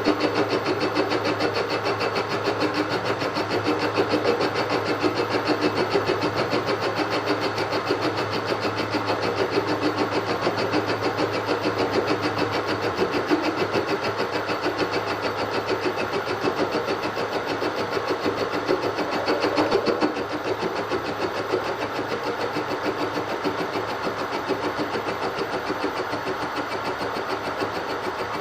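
Milling machine spindle running with a boring head cutting a bore in a metal roller bracket, a steady machining noise with a fine, even ripple. The noise drops slightly about 20 seconds in.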